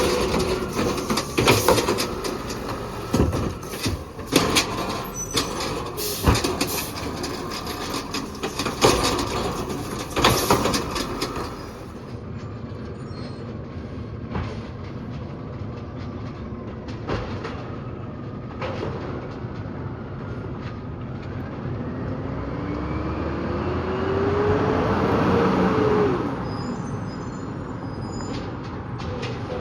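Peterbilt 320 side-loader garbage truck working a stop: a run of sharp clanks and bangs from the clamp arm handling and dumping a cart, then the engine revving up in a rising tone for a few seconds before it drops away.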